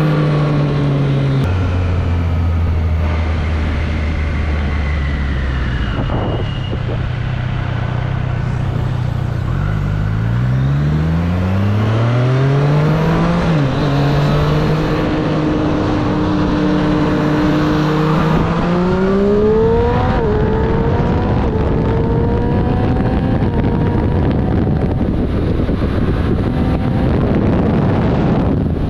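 Triumph Street Triple's three-cylinder engine heard from the rider's seat: it drops to a low idle early on, then pulls away about ten seconds in, the pitch climbing through the gears with shifts at about 13 and 20 seconds, before settling into a steady cruise with wind noise.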